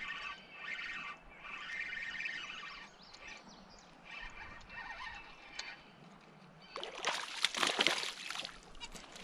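Water splashing and sloshing, loudest from about seven seconds in: a small hooked smallmouth bass thrashing at the surface as it is reeled to the kayak.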